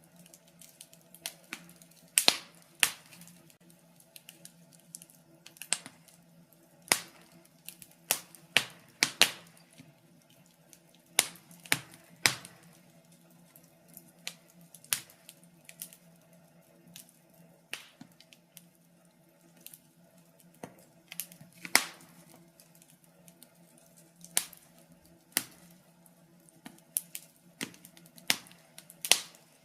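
Wood fire crackling: irregular sharp pops and snaps, sometimes several in quick succession, over a faint steady low hum.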